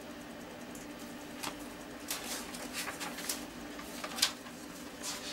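A few soft clicks and rustles of a book being handled and opened, over a steady low hum.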